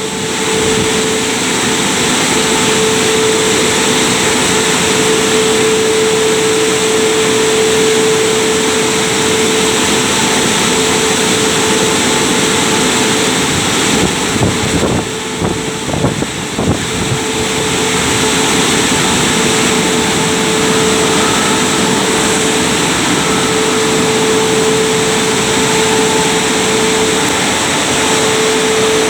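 Christ Genius rollover car wash running: a steady, loud rushing noise with a constant hum through it, easing briefly about halfway through.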